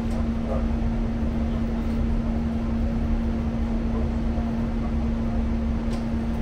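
Cabin sound of a diesel multiple-unit passenger train running along a station platform as it pulls in: a steady low rumble with a constant hum.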